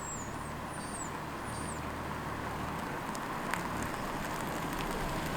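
A steady low engine hum, like a vehicle idling, with four short high chirps in the first two seconds.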